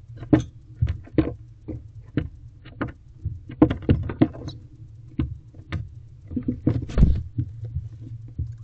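Barn owlets moving about inside a nest box: irregular knocks, scuffs and scrapes of feet and bodies on the box floor, over a steady low hum.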